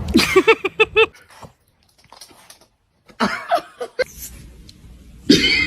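A pet's short, pitched calls: a quick run of about five in the first second, then a few more cries later, the loudest near the end.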